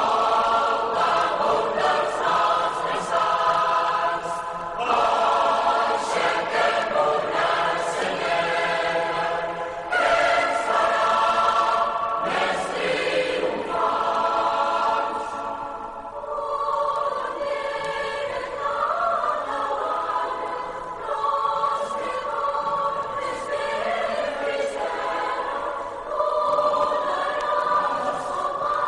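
Many voices singing together, choir-like, in long held phrases that change every few seconds.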